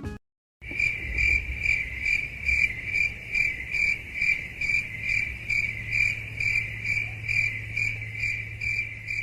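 Cricket chirping, a steady high-pitched trill pulsing about two to three times a second, starting about half a second in.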